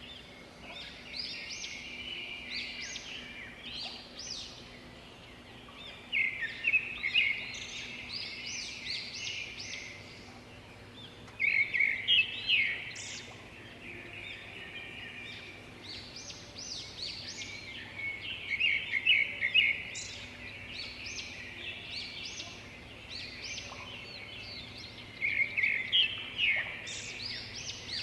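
A songbird singing quick phrases of chirping notes, repeated every five to seven seconds over a low steady background hum.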